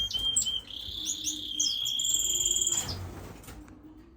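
Small caged finches chirping and whistling: short high calls, then a longer high whistle with a fast trill above it that fades out about three seconds in.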